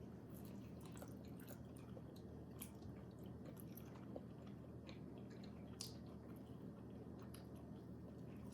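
Faint chewing of a soft, chewy crab-stick snack, with scattered small wet mouth clicks over a steady low hum.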